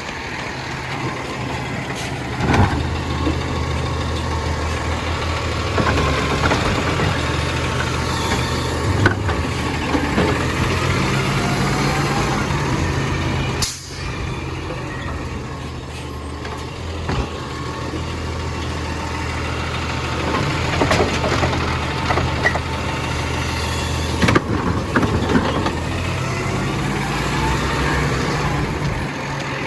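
Compost collection truck's engine running, its pitch stepping up and down a few times, with occasional sharp knocks and clanks.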